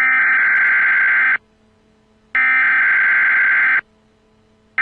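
Emergency Alert System header tones: harsh, buzzing data bursts about a second and a half long, separated by a second of silence; two sound in full and a third begins near the end.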